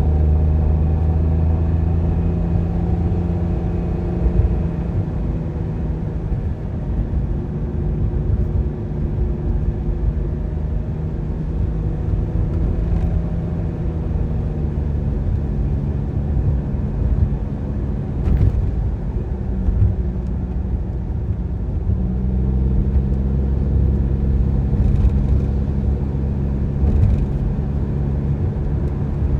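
A car driving, with a steady engine hum over low road rumble. The engine note fades into plain rumble around the middle and returns steady about three quarters of the way in.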